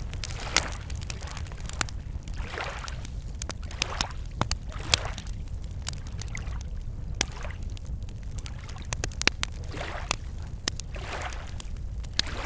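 Wood campfire crackling with many sharp pops, while small waves lap against the lake shore every two to three seconds, over a steady low rumble.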